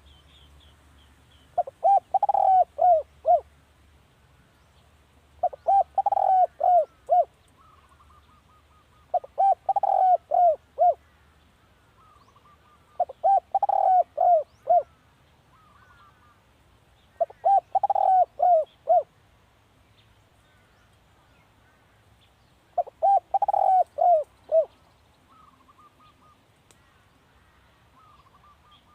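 Spotted dove cooing: six phrases of five to seven quick, low coos each, repeated every few seconds, the calling used as a decoy to lure wild doves. Fainter chirps of other birds come between the phrases.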